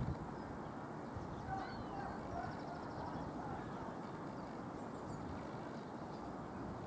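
Distant diesel multiple-unit train approaching at low speed: a low, steady rumble under outdoor background noise. Faint bird calls chirp over it between about one and four seconds in.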